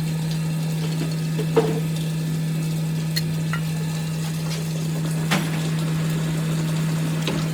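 A motor running with a steady low hum, with a few sharp light clicks and knocks of metal work spread through it.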